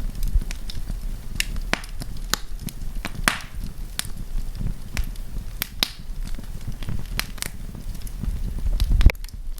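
Wood campfire crackling, with sharp irregular pops and snaps over a low rumble of flames. The low rumble swells shortly before the end, then drops off suddenly.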